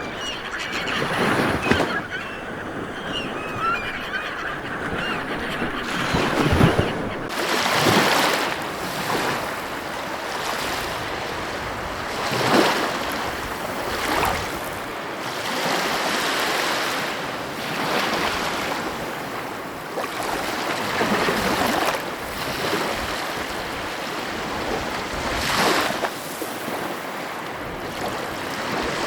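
Ocean waves washing onto a shore: a steady rush of surf that swells into a louder wash every few seconds.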